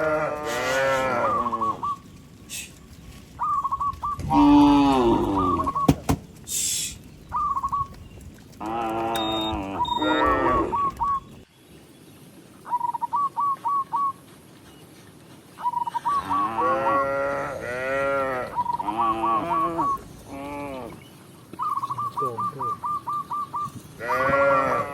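Cows mooing repeatedly: several long calls that rise and fall in pitch. Between them come runs of short, high, rapidly repeated chirping notes.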